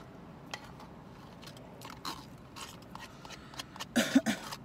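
Takeout food being chewed and bitten close to the microphone: scattered small crunches and mouth clicks, then a short loud throaty vocal sound about four seconds in.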